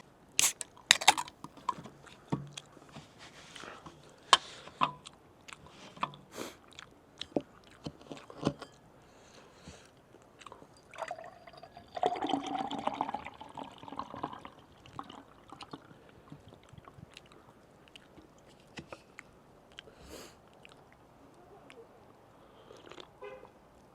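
Close-miked eating: irregular wet chewing and mouth clicks, with a louder slurping stretch about twelve seconds in.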